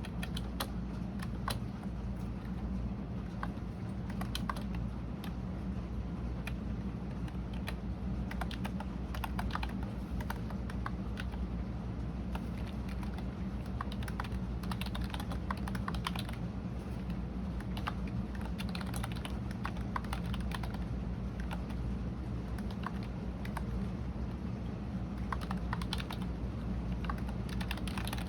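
Continuous typing on a computer keyboard: irregular rapid key clicks, over a steady low hum.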